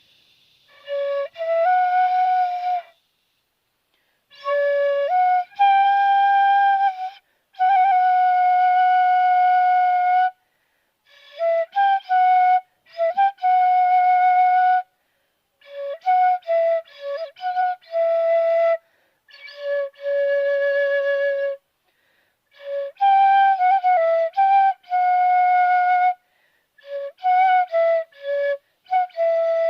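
Dizi (bamboo transverse flute) played freestyle by a beginner: short phrases of held notes and quick changes of note, broken by brief pauses, with some notes off pitch, flat or sharp.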